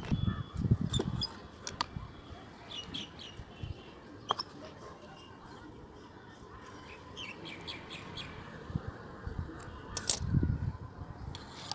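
Small birds chirping in short calls throughout, with scattered sharp clicks and low handling bumps near the start and again about ten seconds in.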